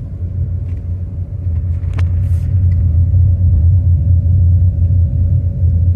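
Loud, steady low rumble with a faint steady hum above it, and a single short click about two seconds in.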